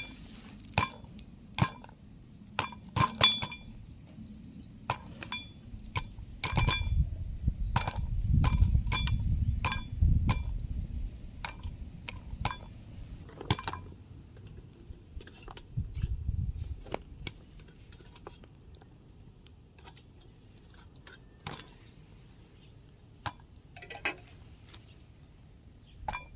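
Popcorn kernels popping inside a metal cooking pot over a small fire: irregular sharp pops, each giving the pot a short metallic ping. A low rumble runs under the pops for a few seconds midway and again briefly later.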